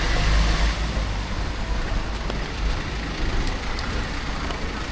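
City street traffic: a heavy vehicle's engine rumbling past, loudest in about the first second, over a steady wash of road and tyre noise.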